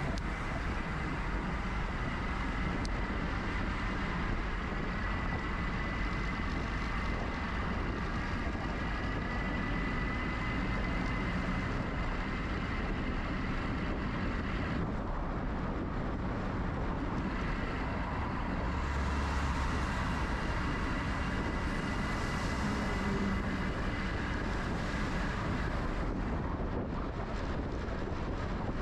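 Steady wind rush over the microphone and road noise from riding an electric bicycle along city streets, with traffic, and a faint steady whine running underneath.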